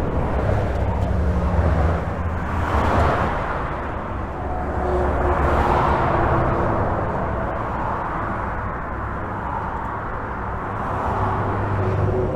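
Highway traffic heard from beneath a bridge: a steady hiss of tyres and engine rumble, swelling as vehicles pass overhead and nearby, with a deep low rumble under it.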